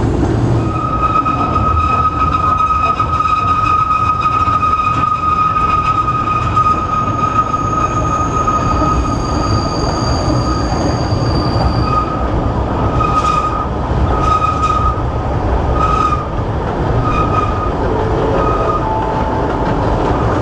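Narrow-gauge Kurobe Gorge Railway train running, heard from its open-sided car: a steady low rumble of the wheels with a high wheel squeal from about a second in, held until about halfway, then breaking into short squeals.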